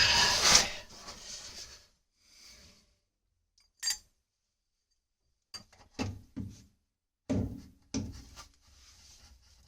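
A flux-coated copper tee being worked back onto copper pipe: a loud scraping rub, then a sharp click and a few knocks as the fitting is pushed and tapped into place.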